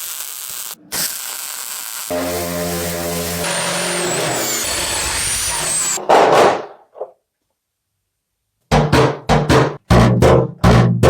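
Restoration workshop sounds in quick cuts: a steady hiss with a low motor hum and a faint high whistle, then a short loud rush of air. After a silent gap come about seven sharp, uneven knocks.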